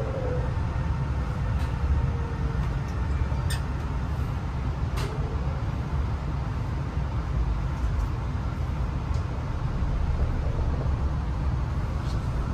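Beijing Daxing Airport Express train decelerating, heard inside the carriage: a steady low rumble of the running train, with an electric whine falling in pitch over the first couple of seconds as it slows. A few light clicks come in the first five seconds.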